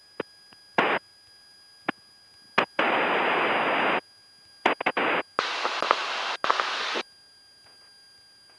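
Hiss of cockpit noise in a Cessna 172's headset intercom audio, switching on and off abruptly several times as the squelch opens and closes, with a few clicks between; the longest bursts last about a second and a half, and it falls quiet near the end.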